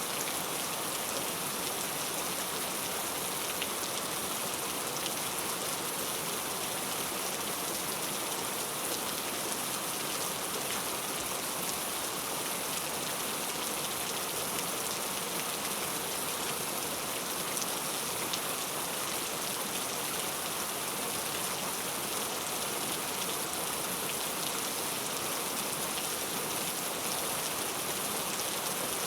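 Heavy rain falling steadily, a dense even hiss of drops with fine pattering and no thunder.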